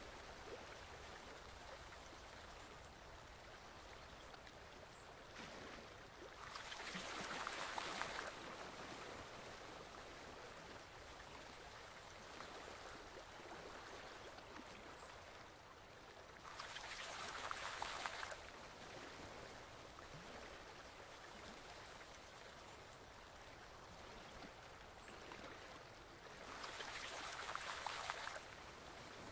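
Stream water flowing steadily, swelling into a louder gush three times, about every ten seconds.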